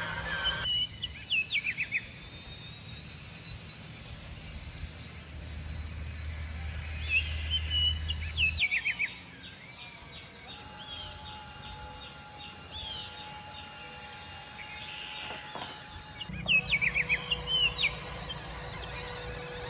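Clusters of short, quick falling chirps, like birds calling, over a steady outdoor background that changes abruptly twice where the audio is cut.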